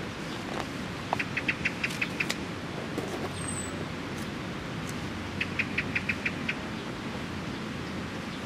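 A bird giving quick runs of high chirps, about seven notes in just over a second, repeated every four seconds or so, over a steady background noise.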